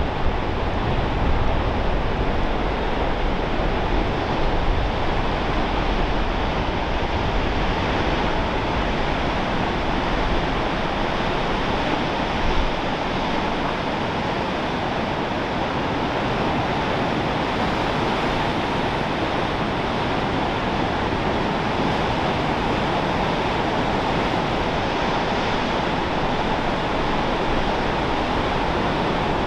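Steady rushing noise of ocean surf and wind on the coast. Wind buffets the microphone with a low rumble during roughly the first dozen seconds.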